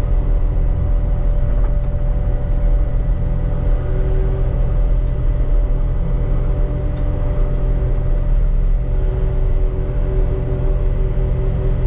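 Caterpillar 289D3 compact track loader running steadily while mowing with a brush-cutter attachment: a low, even diesel drone with steady higher tones riding over it.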